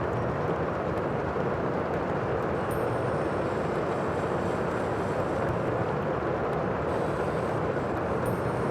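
Steady roar of sea surf: an even rushing noise with no single wave standing out.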